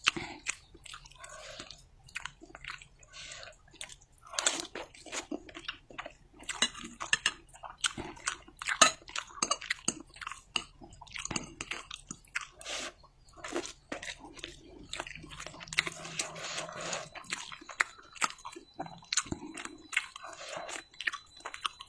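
A person eating mi goreng (fried noodles with egg), chewing and biting mouthfuls close to the microphone, heard as many short, irregular wet mouth clicks.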